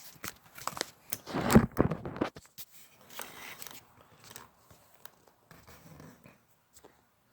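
Irregular clicks, knocks and scrapes, the loudest a low thump about a second and a half in.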